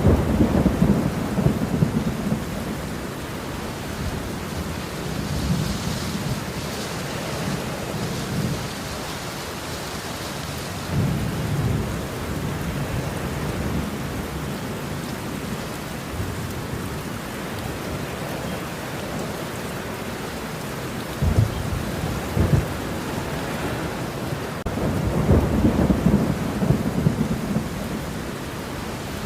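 Steady rain falling through a thunderstorm, with rolling thunder that rumbles at the start, again about a third of the way in, cracks sharply twice a little past two-thirds of the way, and rumbles longer near the end.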